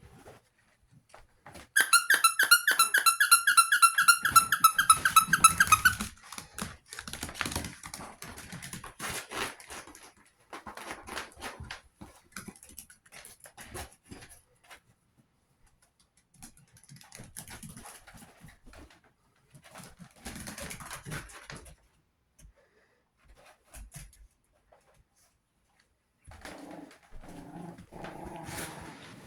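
Chihuahua puppies playing. About two seconds in there is a loud, high, rapidly pulsing squeak that lasts about four seconds. It is followed by scattered scuffling and clicking, and short low growly yips near the end.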